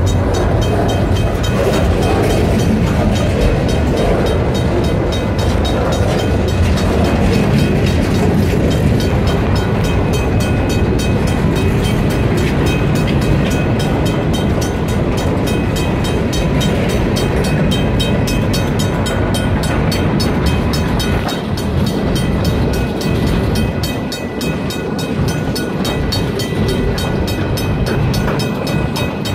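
Freight train rolling by, a steady loud rumble of wheels and cars on the rails with a faint steady ringing tone above it.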